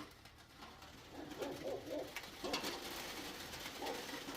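Heavy rain falling on the roof, a steady hiss, with a few short low-pitched calls in the middle.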